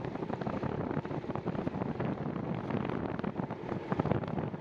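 Wind buffeting the microphone of a bike-mounted or rider-worn camera while cycling, a rough uneven rush.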